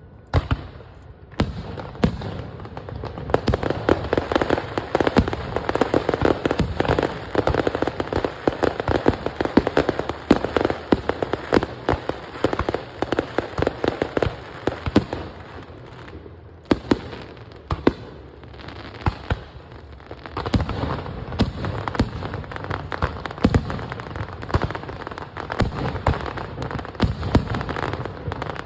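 Fireworks going off in a dense, continuous crackle of rapid pops and bangs. The crackle thins briefly past the middle, then builds again near the end.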